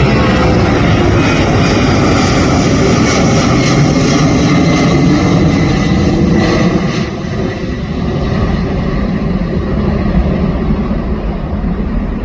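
Boeing C-17 Globemaster III's four turbofan engines at takeoff power, a loud steady jet roar with a thin whine in it. The roar drops away about seven seconds in and keeps fading as the aircraft climbs out.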